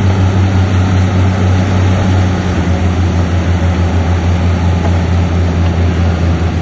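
Shantui bulldozer's diesel engine running: a loud, steady low drone, with a faint regular pulsing in it from about two seconds in.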